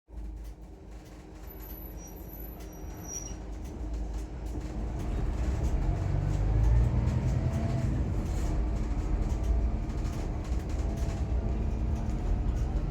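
Engine and road noise of a Scania K410EB6 coach on the move, growing louder over the first several seconds as it picks up speed and then holding steady.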